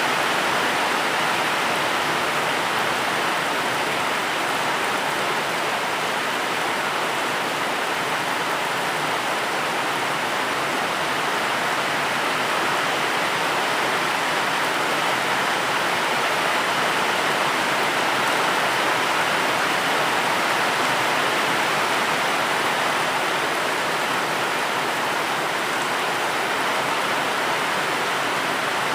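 Steady heavy rain: a dense, even hiss with no separate drops or thunder standing out.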